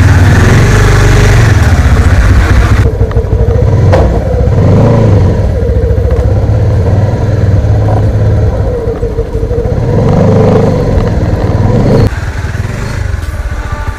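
Honda motorcycle engine running while riding slowly, swelling in pitch twice as the throttle is opened and eased off. The sound changes abruptly about three seconds in and again near the end.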